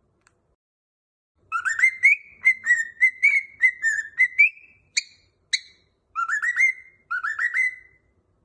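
Cockatiel whistling a tune: about a second and a half of silence, then a run of quick whistled notes, two short chirps, and two rising whistled phrases near the end.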